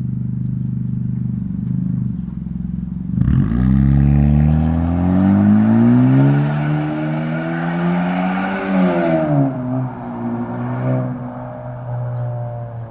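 Car engine idling, then revving up and climbing steadily in pitch for about five seconds before dropping back to idle, with a short blip of the throttle near the end.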